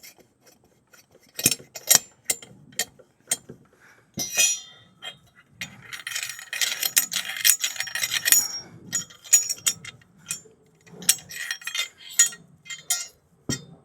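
Scattered metallic clinks and clicks from handling the stainless steel exhaust parts. About six seconds in comes a few seconds of rubbing noise, a pad scrubbing the metal.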